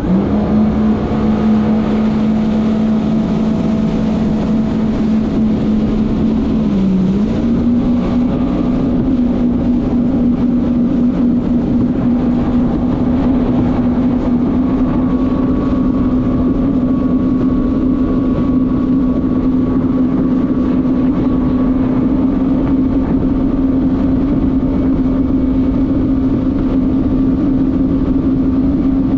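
Jet ski engine running steadily at speed over a constant rushing noise. The engine pitch dips briefly about seven seconds in, then settles a little higher and holds.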